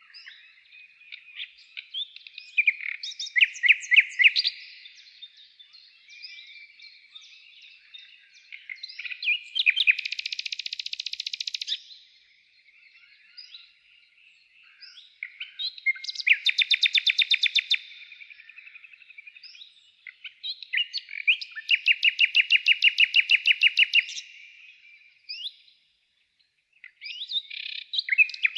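Songbirds singing: several long trills of rapid, evenly repeated notes every few seconds, with scattered chirps between them.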